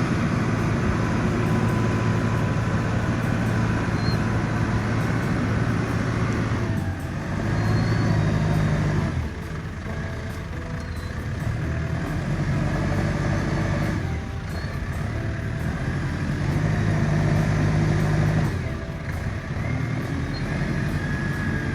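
New Holland T5060 tractor's diesel engine running under working load, growing louder twice as the load comes on and eases off.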